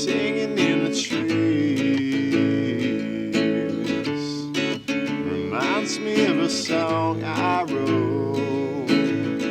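Acoustic guitar strummed steadily in a live acoustic song, with a wavering melody line gliding over the chords.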